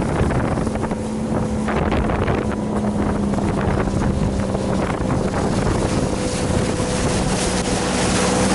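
Boat engine running steadily, heard under heavy wind buffeting on the microphone.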